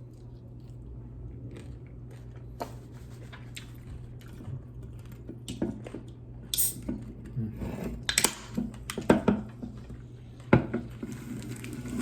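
Close-up mouth sounds of someone eating crispy fried chicken feet: irregular sharp crunches and wet chewing. They are sparse at first and get louder and more frequent in the second half. A faint steady hum runs underneath.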